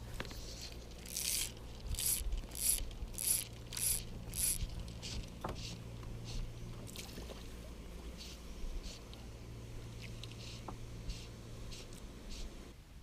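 Fly line being pulled by hand in a quick run of swishing strokes, six strong ones about every 0.6 s, then fainter ones, over a steady low hum.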